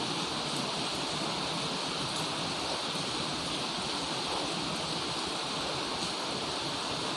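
Heavy rain pouring steadily, a dense even hiss with faint scattered drop ticks.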